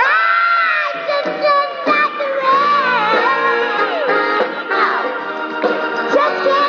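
Live pop band with a female lead vocalist singing wordless runs that slide up and down in pitch over sustained chords.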